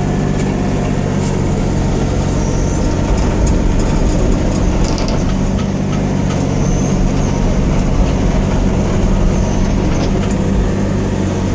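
Hitachi ZX35U mini excavator's diesel engine running steadily while its hydraulic functions are worked, with a few short, faint high whines and small clicks on top.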